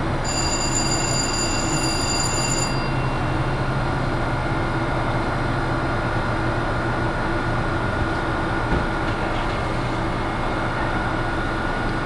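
Steady hum and whir of an Amtrak Keystone passenger train standing at the platform. A thin high-pitched tone sounds over it for the first two or three seconds.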